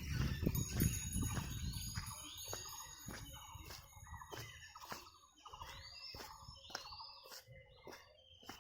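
Birds calling: many short notes that sweep up and fall back, repeated over and over, with sharp clicks in between and a faint steady high whine. A low rumble fades out in the first two seconds.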